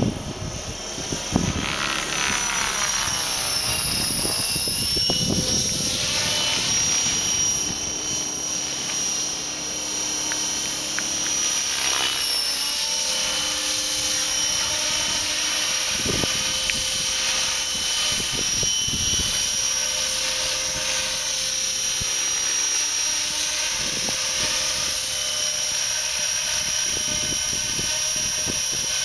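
Radio-controlled Align T-REX 600 flybarless model helicopter in flight: a steady high whine from its rotor and drive, dipping in pitch briefly twice.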